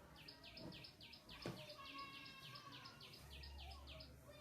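A bird calling faintly in a rapid series of short, high, downward-sliding chirps, about four or five a second, that stops shortly before the end. A single sharp click sounds about a second and a half in.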